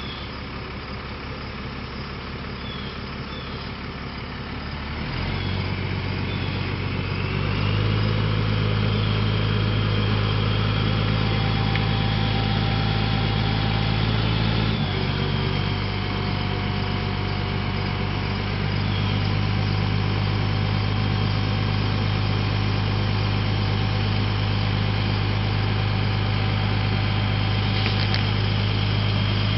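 1992 National crane truck's engine idling, then speeding up about five seconds in and holding a steady higher speed, with a thin high whine above it, as it drives the hydraulics that run the crane's boom out.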